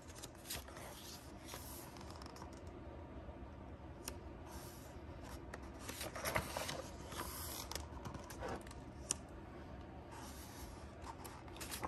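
Faint rustling and scattered light clicks of a paper picture book being handled and its pages turned, busiest about six to seven seconds in.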